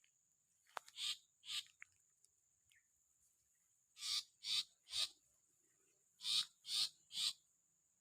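Long-tailed shrike (the parent bird) calling near its nest: eight short, harsh, rasping calls, two about a second in, then three and three more in quick runs later. A faint steady high-pitched hum runs underneath.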